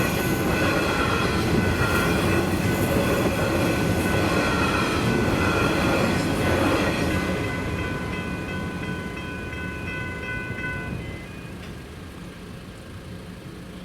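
A train runs past over the level crossing, its wheels rumbling on the rails, while the crossing's electronic bells ring steadily. The train noise fades after about seven seconds, and the bells cut off about eleven seconds in.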